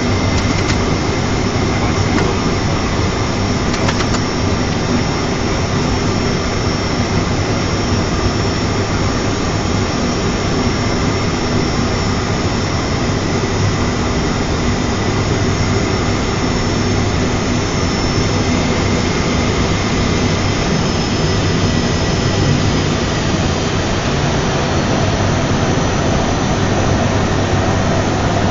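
Cockpit noise of an ATR42-500's two turboprop engines and six-blade propellers running steadily on the landing approach: a loud, even drone with a steady high whine over it.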